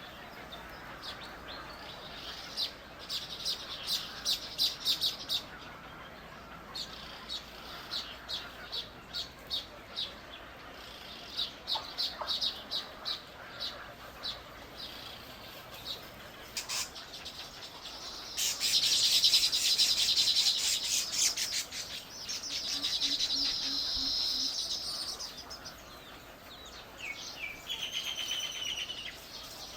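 Small birds chirping: a run of short, sharp, high chirps, then about 18 seconds in a rapid, dense chattering trill lasting some three seconds, a second chatter a little later, and a few more chirps near the end.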